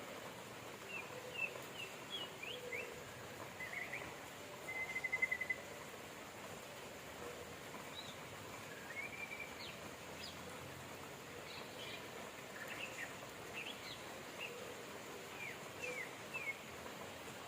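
Steady rain with birds chirping over it in short, scattered calls, and a quick trill about five seconds in.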